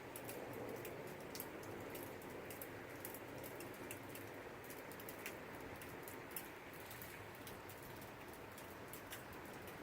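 Rain falling steadily in a thunderstorm, with many sharp little drop ticks over a soft hiss. A low rumble of thunder dies away in the first second.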